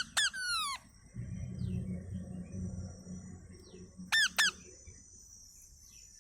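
Parrot giving short shrill screeches, each dropping in pitch: a quick run of three at the start and two more about four seconds in. A steady high insect buzz runs underneath.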